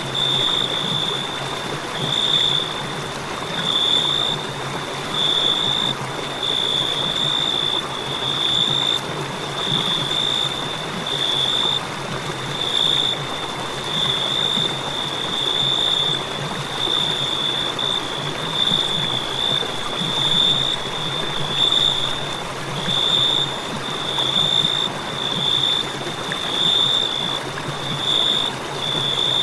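Crickets chirping, a high pulsing trill repeating about once a second, over a steady rushing hiss.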